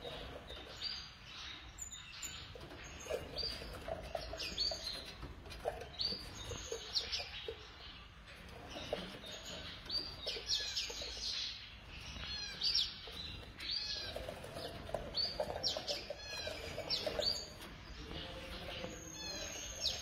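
A flock of small caged birds in an aviary chirping, with many short, high, overlapping chirps and quick whistled sweeps throughout.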